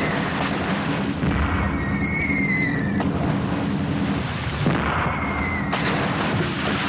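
Naval gunfire with shells landing: about five sudden blasts, spaced a second or two apart, several of them preceded by a short falling whistle. A boat's engines drone steadily underneath.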